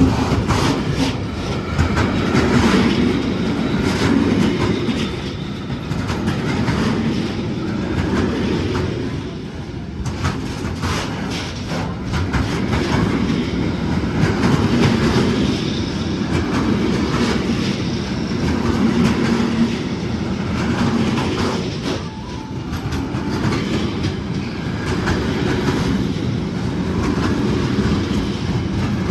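A train rolling along the track at close range: a continuous heavy rumble with the wheels clicking over the rail joints.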